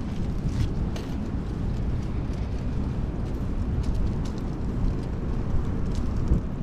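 Steady low rumble of wind on the microphone and road noise from a fixed-gear bicycle being ridden through city traffic, with faint scattered light ticks.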